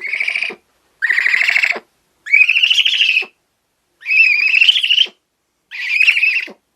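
An owl's calls played as the owl's sound: five short, high trilled calls about a second apart, each rising a little in pitch.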